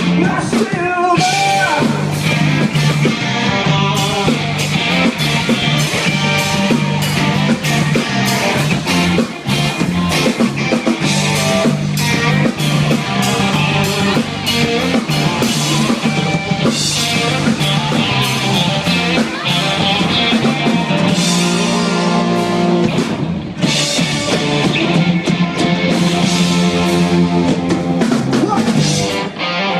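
Rock band playing live: drum kit hitting steadily, guitar, and a held low bass line, in a mostly instrumental stretch of the song.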